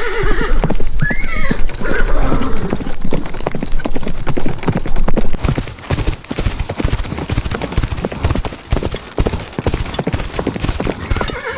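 Horse hooves clattering in rapid, continuous hoofbeats, with a horse whinnying near the end.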